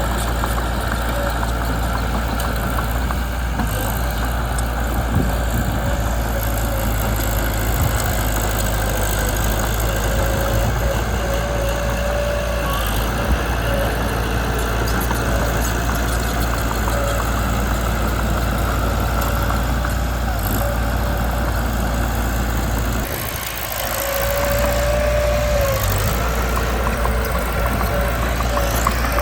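Mitsubishi BD2 bulldozer's diesel engine running steadily, with a thin whine coming and going over it and a brief dip in level about 23 seconds in.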